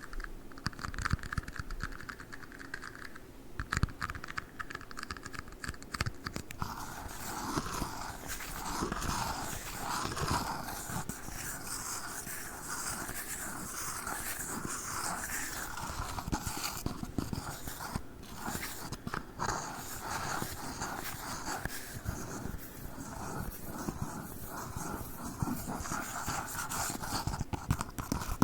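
Fast tapping and scratching on tiny red cups close to the microphone: a dense run of quick clicks and scrapes, changing texture about a quarter of the way in.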